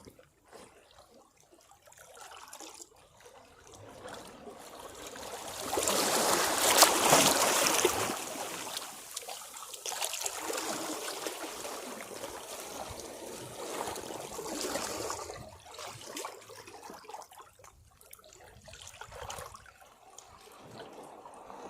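Sea waves washing against rocks. One larger wave surges in about six seconds in, and the water then streams and trickles back off the rocks, dying down toward the end.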